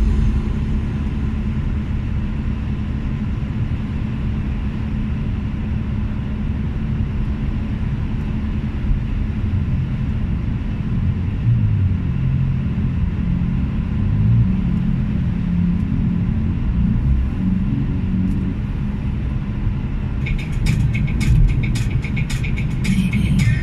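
Steady low rumble of a motor vehicle on the move. Near the end comes a run of rapid clicking.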